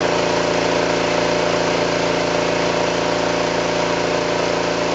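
A motor running steadily, a continuous hum with several steady tones and no change in pitch or level.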